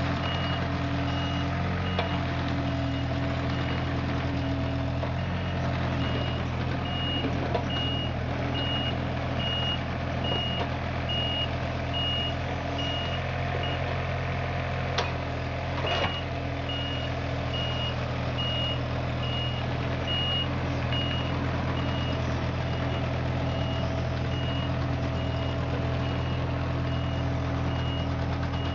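A John Deere 35ZTS mini excavator's diesel engine runs steadily while its travel alarm beeps, about two beeps a second, as the machine tracks. The beeping stops briefly around the middle, where a couple of sharp knocks sound, then resumes.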